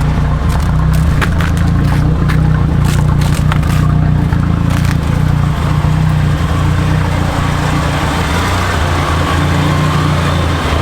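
Shelby Dodge Rampage's turbocharged 2.2-litre four-cylinder engine running steadily at low revs, with scattered sharp clicks and crackles over it in the first half.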